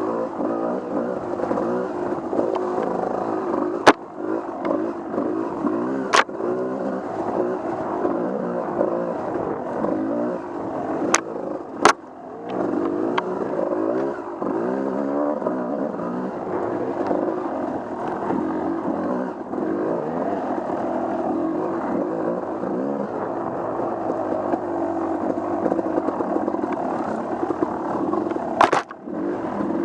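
Off-road vehicle engine running on a trail ride, its pitch rising and falling as the throttle is opened and eased off. A few sharp knocks or clacks cut through it now and then.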